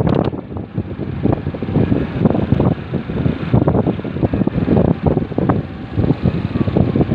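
Wind buffeting the microphone of a moving motorcycle: an uneven, gusting noise that rises and falls every fraction of a second.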